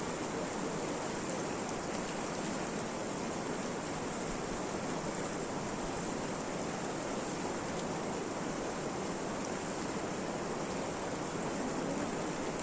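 Steady, even rushing noise that does not change, with a few faint ticks.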